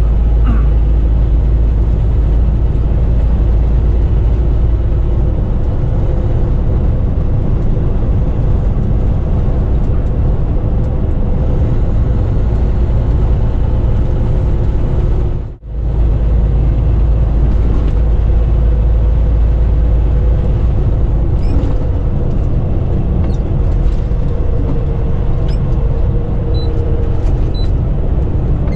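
Semi truck driving on the interstate: a steady low rumble of engine and road noise, which drops out briefly about halfway through.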